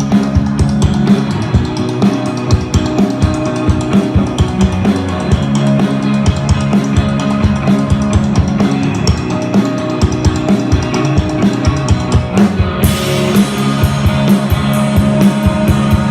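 Rock band playing live, with drum kit and guitar over a steady beat; about thirteen seconds in the sound turns brighter and fuller.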